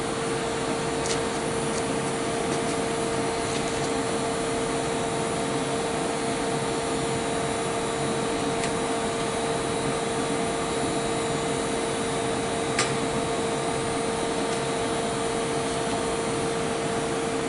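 Steady fan-like machine hum with one held mid-pitched tone, and a few faint clicks, the clearest about thirteen seconds in.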